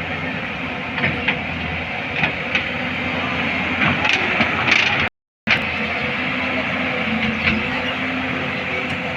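A Hyundai excavator running steadily, with sharp metallic clanks and knocks of its steel track chain links as the chain is worked onto the undercarriage, several in quick succession a little before halfway. The sound cuts out completely for a moment about halfway.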